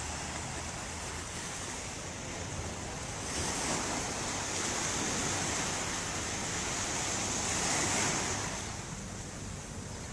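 Ocean waves washing onto a shore: a steady hiss of surf that swells a few seconds in, peaks, and subsides near the end.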